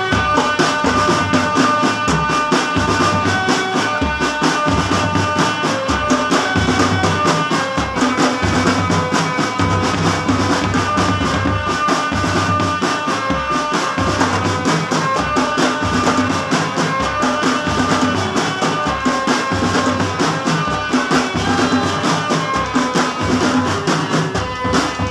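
Marching drum band playing: bass drums and snare drums beat a steady rhythm under a held melody line.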